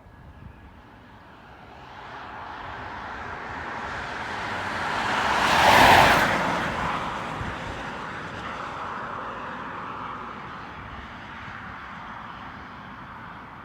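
Jet airliner passing by: its engine noise swells to a loud peak about six seconds in, then fades away slowly.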